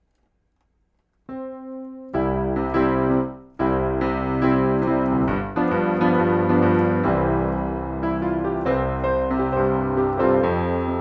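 Honky-tonk piano patch of the Bismark bs-16i sampler app, played on a keyboard: a single note about a second in, then full, loosely played chords.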